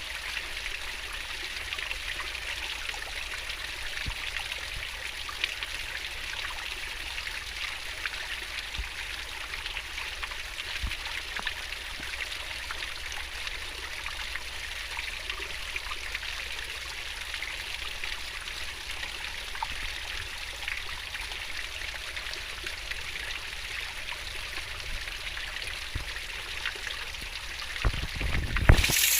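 Swiftly flowing river water babbling steadily, with small splashes and drips. Near the end the rushing turns suddenly louder.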